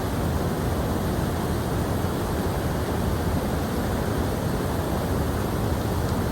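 Rushing water: a steady, even roar with no surges or breaks.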